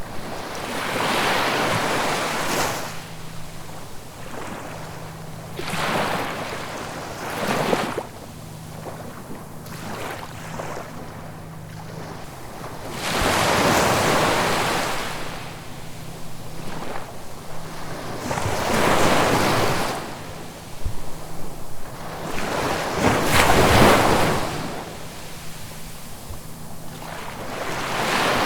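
Sea waves breaking on the shore and washing back, about six surges that each swell and fade over a second or two, with a faint steady low hum underneath.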